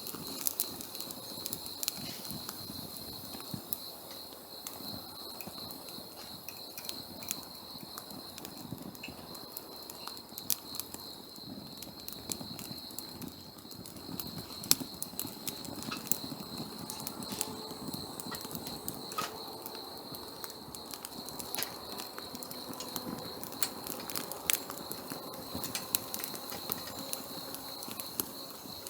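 Wood campfire crackling, with irregular sharp pops and snaps, over a steady high-pitched drone.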